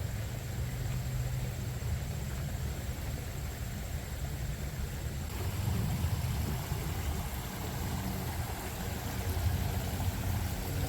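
Steady rushing of a waterfall, heavy in the low end, becoming slightly fuller about halfway through.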